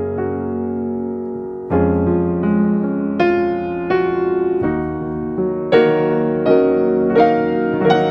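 Background piano music, slow chords and notes struck one after another.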